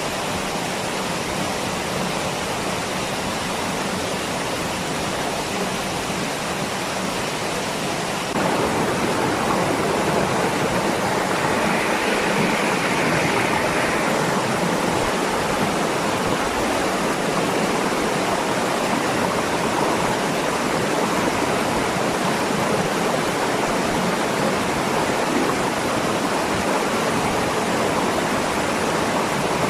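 Waterfall's rushing water, a steady noisy wash that jumps louder suddenly about eight seconds in.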